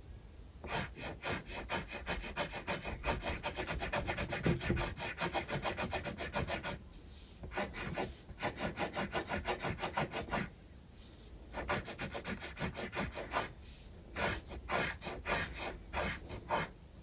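Graphite pencil scratching on sketchbook paper in rapid back-and-forth shading strokes. There are four runs of strokes, with short pauses between them.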